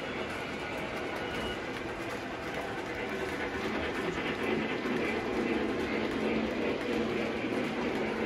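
Train running along the track: a steady rolling rumble that grows a little louder partway through.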